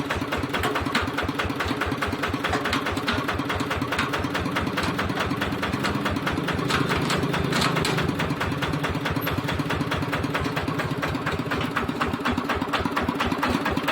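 Walking tractor's single-cylinder diesel engine running steadily, with a fast, even knocking beat that swells slightly partway through.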